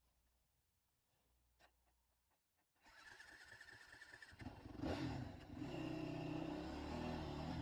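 Near silence for about three seconds, then a Yamaha WR 450 single-cylinder four-stroke dirt bike engine comes in and runs, with a louder rev about five seconds in.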